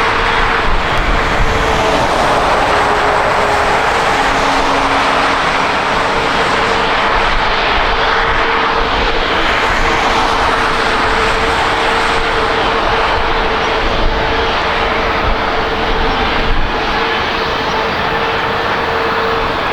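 Jet airliner engines running, a loud, even rush with a steady humming tone underneath.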